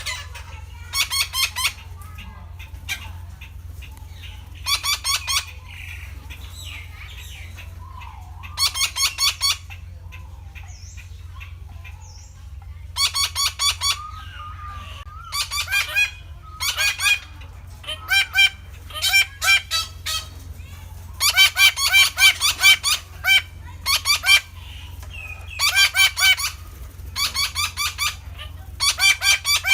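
Red-breasted parakeet calling: bouts of rapid, harsh, repeated notes about a second long, coming every few seconds and closer together in the second half, over a steady low hum.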